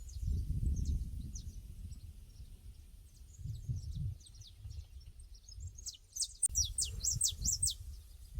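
Pasture ambience: small birds chirping in quick series of short, falling notes that crowd together and grow loudest near the end. Under them is a low rumbling noise that swells and fades.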